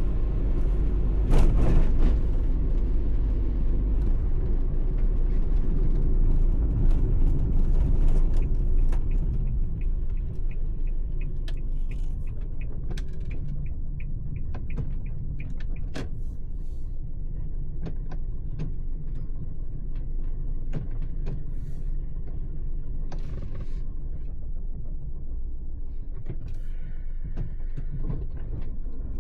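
Suzuki Every kei van on the move: a steady low road rumble, a little louder in the first nine seconds, with scattered small clicks and knocks over it.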